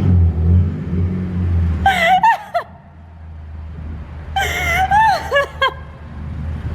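Ford Fiesta ST's engine running with a low, steady rumble as the car creeps along, with two short bursts of high-pitched nervous squeals, about two seconds in and again around four and a half seconds.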